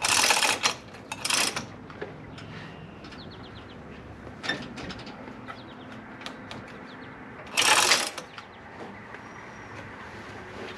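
Hand tools at work on the car's underside: quick runs of ratchet-wrench clicks, two short loud runs at the start and another about seven and a half seconds in, with fainter clicking between.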